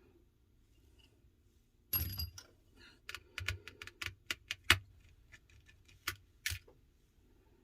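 Small metal repair tools and tiny parts clicking and tapping against an iPhone 12's housing during disassembly: a short clatter with a brief metallic ring about two seconds in, then a run of a dozen or so quick, irregular sharp ticks.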